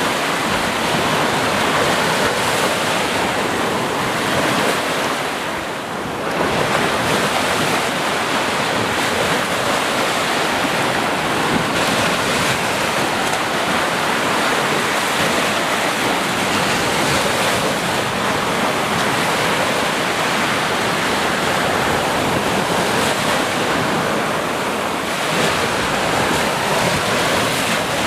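Sea surf: waves breaking and washing in a continuous, steady rush, with a brief lull about six seconds in.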